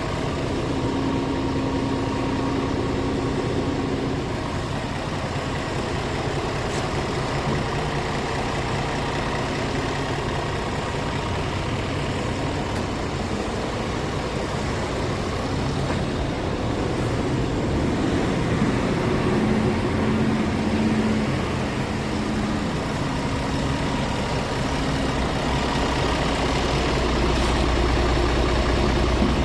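Scania R450 tractor unit's 13-litre inline-six diesel engine idling steadily, its tone shifting slightly, with a heavier low rumble near the end.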